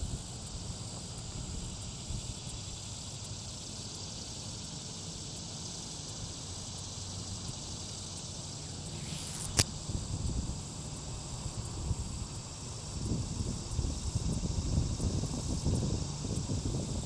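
Outdoor ambience: wind buffeting the microphone with a low rumble that grows stronger in the last few seconds, over a steady high hiss. A single sharp click about nine and a half seconds in.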